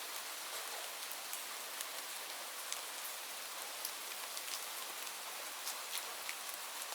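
Steady rain: an even hiss of rainfall with many separate drops ticking on a surface.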